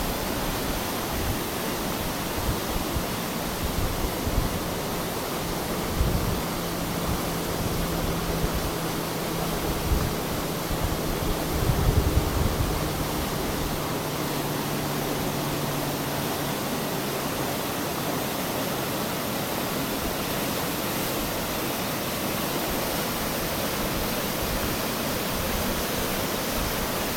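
Steady rush of fast-flowing floodwater, with a few low thumps of wind on the microphone in the first half and a faint low hum that fades out about two-thirds of the way through.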